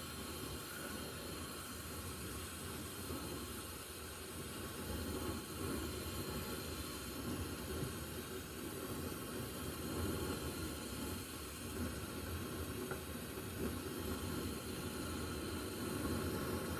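Gas torch flame hissing steadily while it heats stuck bolts.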